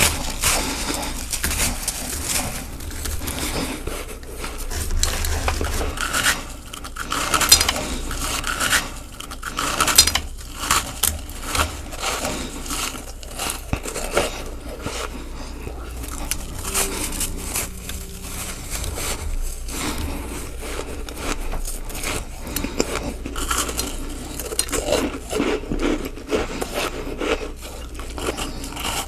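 Close-miked biting and chewing of ice: a dense, steady run of crackling, scraping crunches, with the sharpest cracks about seven and ten seconds in.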